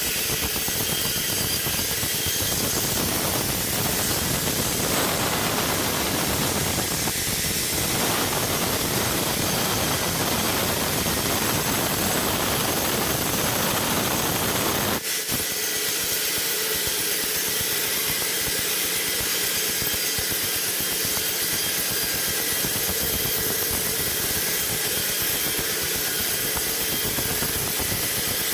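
Sawmill running with a steady, loud mechanical noise, the saw working through wood. About halfway through the sound changes abruptly to a thinner hiss with much less low rumble.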